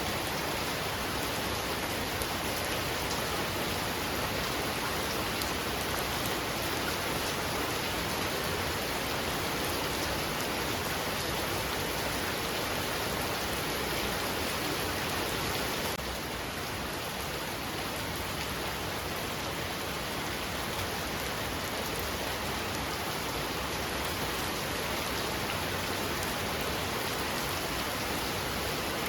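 Heavy rain falling steadily, a dense even hiss of rain on surfaces, dropping slightly in level about halfway through.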